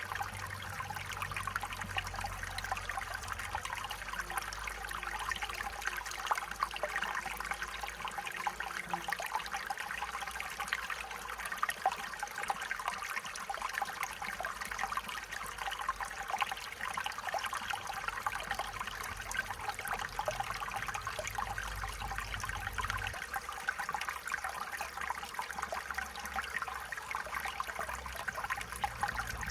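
Stream water flowing and babbling steadily over stones, with a faint low rumble underneath that drops away about 23 seconds in.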